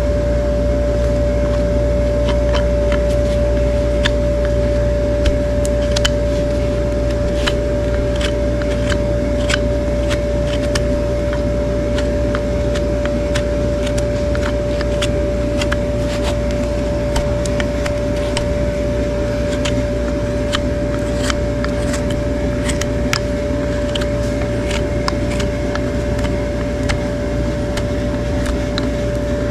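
A steady machine hum with one constant tone and a low rumble, with many irregular sharp clicks and scrapes over it.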